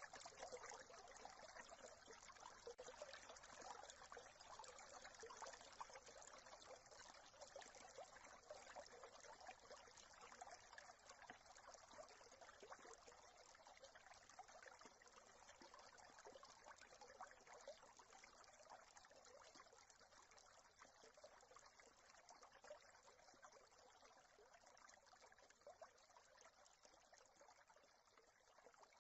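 Small brook trickling and babbling, faint and gradually growing quieter.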